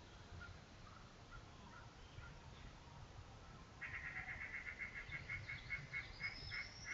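An animal, most likely a bird, giving a rapid run of short calls, about five a second, starting a little past halfway through. A thin rising whistle comes near the end.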